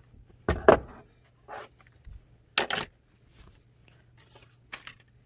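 Several sharp knocks and clatters of tools and small objects being handled and set down on a hard work surface, the loudest about half a second in and another near the middle, over a faint steady low hum.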